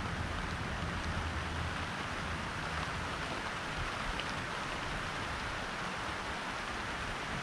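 Steady rain hissing during a thunderstorm, with a low rumble of thunder dying away in the first two seconds.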